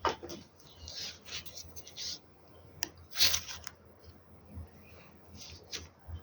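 Scattered clicks, scrapes and rustles of small electronic parts and cables being handled, the loudest a short scratchy rustle about three seconds in.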